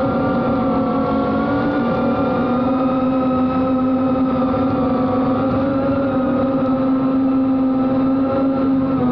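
Motors and Gemfan D76 propellers of a Reptile Cloud HD FPV quadcopter running with a steady whine. The pitch wavers slightly.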